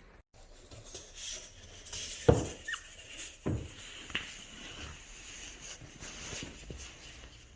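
Small animal scuffling and pattering about, with two sharp knocks a little over two and three and a half seconds in and a brief high squeak between them, typical of an Asian small-clawed otter moving and chirping.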